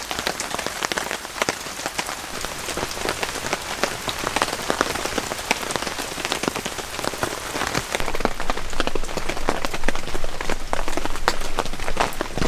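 Steady rain falling, a dense patter of many small drops. About eight seconds in, the sound shifts and grows somewhat louder, with less hiss and a low rumble underneath.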